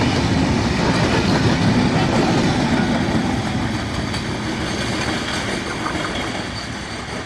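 Intercity passenger train coaches rolling past on the rails at speed. The steady, loud running noise of wheels on track slowly fades over the last few seconds as the train draws away.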